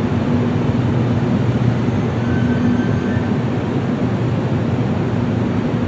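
Steady running noise of a public-transport vehicle, a bus or train, heard from the inside: an even rumble with a constant low hum.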